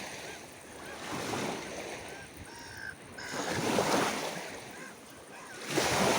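Sea waves washing ashore, swelling and falling back three times. Several short, faint gull calls are heard between the swells.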